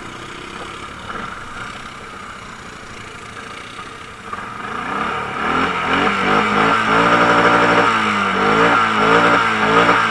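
Quad bike (ATV) engine running, then from about four seconds in revving hard, its pitch rising and falling over and over as the throttle is worked.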